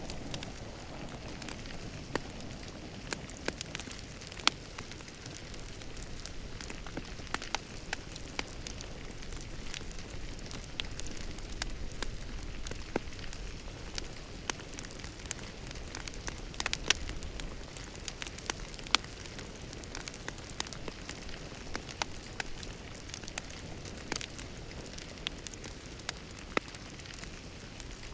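Wood fire crackling in a fireplace: a steady low rumble and hiss with frequent irregular pops and snaps, a few of them sharp and loud.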